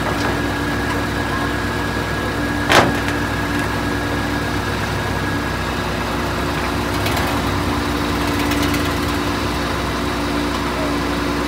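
Diesel engine of a Howo truck running steadily at an even speed, with a constant whine over it and a single sharp knock about three seconds in.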